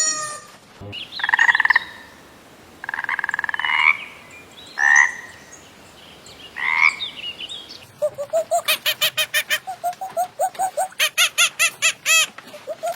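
Frogs croaking: four drawn-out, pulsing calls, then from about eight seconds in a quick run of short repeated croaks.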